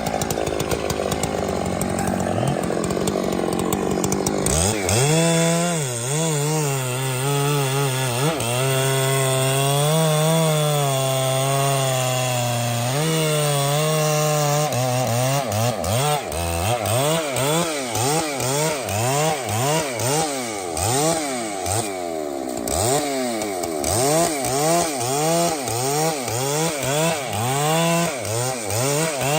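Two-stroke chainsaw running hard. For the first few seconds it makes a rough, dense noise. Then its engine note swings up and down in pitch, and in the second half it rises and falls rapidly over and over, more than once a second.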